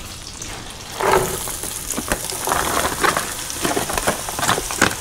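Onions frying in hot oil and melted butter in a pan: a sizzle that grows suddenly louder about a second in, full of small crackles.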